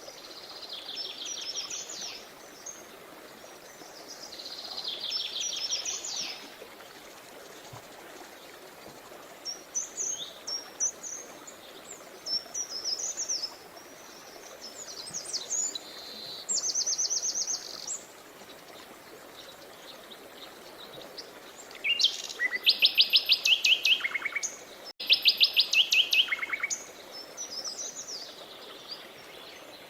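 Songbirds singing in repeated phrases of rapid trills and chirps, some eight phrases with the loudest two trills coming near the end, over a steady rush of flowing stream water.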